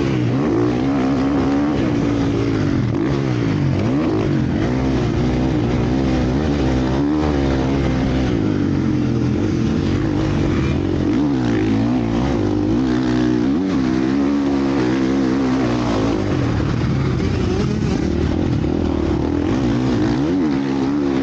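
Several motocross bikes racing, their engines revving up and down at once, one rise overlapping another throughout.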